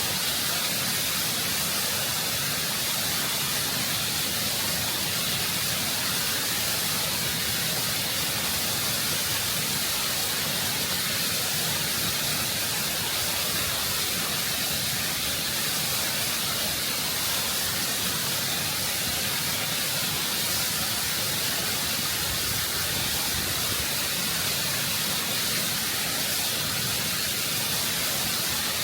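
Waterfall water rushing and cascading over rock, heard close up: a steady, full hiss of falling water, heaviest in the high end, without a break.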